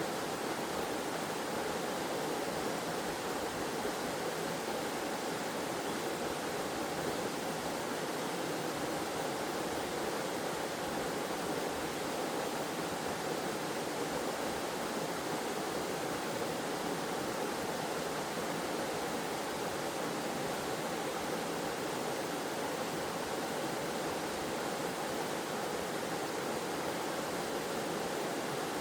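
Steady rush of water falling and flowing in a waterfall cascade, a continuous even hiss and splash.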